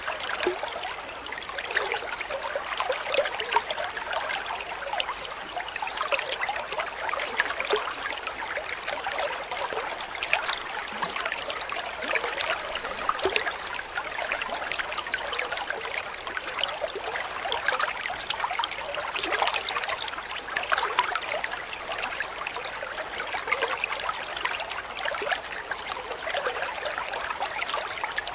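Water trickling and splashing steadily, like a small stream, with no break or change.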